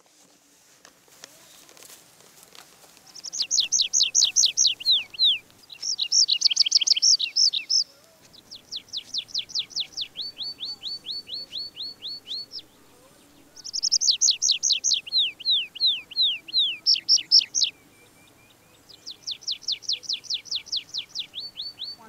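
A songbird singing in about five phrases with short pauses between them. Each phrase is a fast run of repeated high whistled notes that slide down in pitch, and the pitch and pace change from phrase to phrase.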